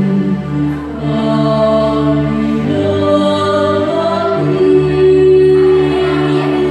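A choir singing in rehearsal: long held notes in full chords that change about every second or so.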